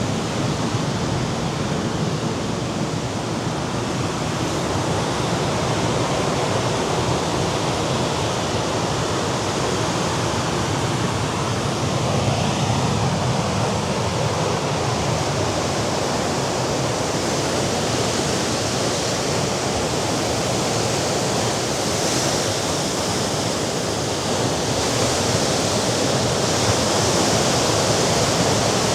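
Mediterranean sea waves breaking and washing against the rocks at the foot of a cliff, a steady surf wash that swells slightly twice.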